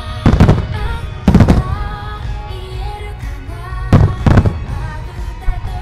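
Aerial firework shells bursting in loud booms: one just after the start, another about a second later, and a close pair about four seconds in. Pop music plays throughout.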